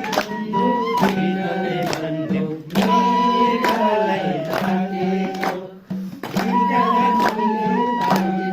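Music: a sung melody over a rhythmic accompaniment with regular strummed or beaten strokes and a steady low tone.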